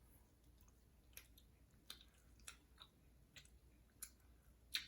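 Faint, wet mouth clicks of someone chewing a gummy candy, about one every half second.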